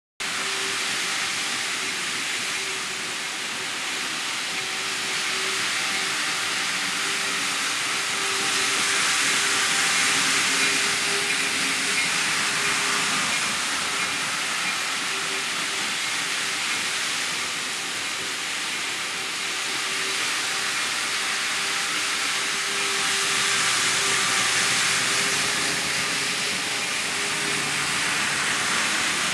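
N scale model train running on its track: a steady rushing hiss of small wheels on rail with a faint, flickering electric motor hum, growing louder twice as the train comes closer.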